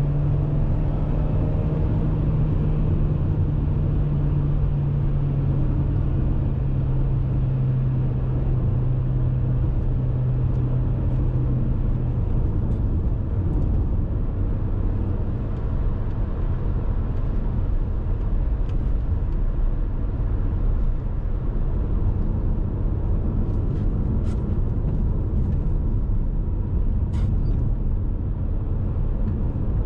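Dacia Duster's 1.6 SCe naturally aspirated four-cylinder petrol engine running at steady revs on the move, over low road and tyre rumble. About twelve seconds in, the engine note drops away and the even road and tyre rumble takes over.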